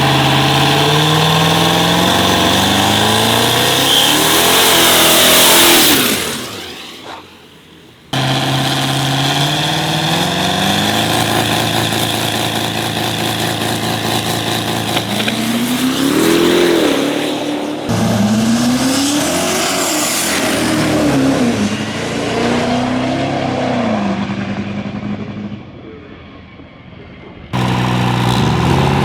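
Diesel drag-racing pickup trucks running hard, engine pitch rising as they accelerate, in several cut-together clips; in places the revs swing up and down.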